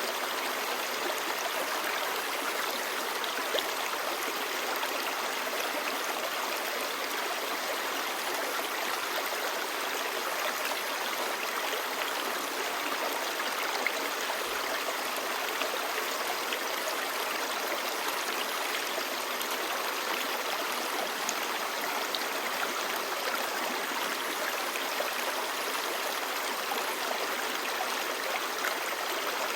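Shallow clear stream babbling steadily over stones, an even rush of water.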